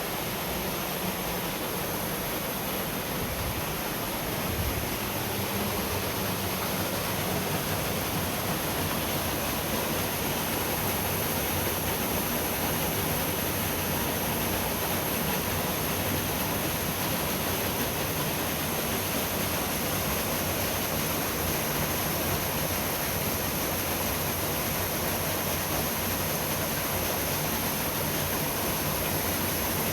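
Mountain river water rushing through a gorge: a steady, full noise of flowing water that grows slightly louder about four seconds in.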